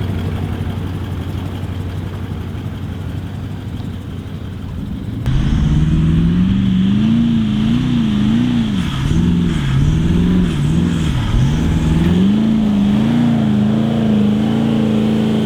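A four-wheel drive's engine running steadily, then from about five seconds in revving hard. Its pitch rises and falls again and again as it works through soft sand, and it drops away at the end.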